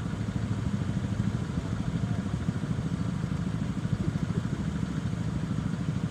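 Motorcycle engine running steadily while riding, a rapid low pulsing from its firing strokes under a fainter road and traffic hiss.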